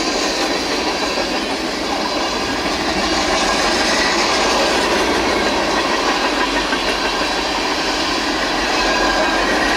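Freight cars of a Norfolk Southern train rolling past, a steady rumble of steel wheels on rail with faint high wheel squeal.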